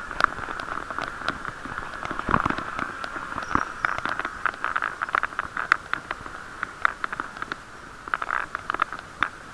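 Bicycle ride heard through an action camera's waterproof case: a steady muffled hiss of riding noise with many irregular clicks and rattles as the case and mount shake over the road surface.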